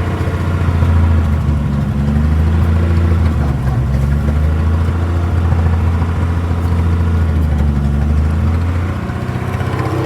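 International KS4 truck's engine running steadily as the old truck creeps along under way, a low even engine note that eases off slightly about nine seconds in.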